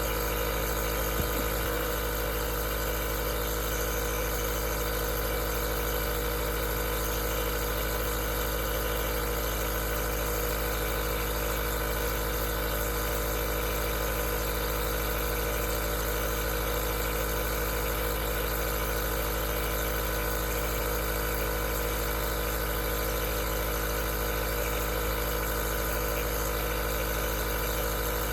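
Aerosol nebulizer's compressor running steadily: a constant mechanical hum with an even hiss of air, one faint tick about a second in.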